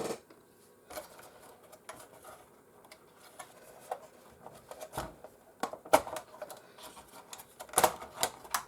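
Scattered clicks and knocks of a PlayStation 4's internal parts and connectors being handled and unclipped, with a louder cluster of knocks near the end.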